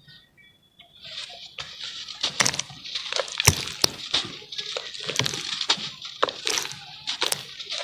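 Charcoal being crumbled in water: a dense crackling and crunching with sharp cracks and snaps, starting about a second in.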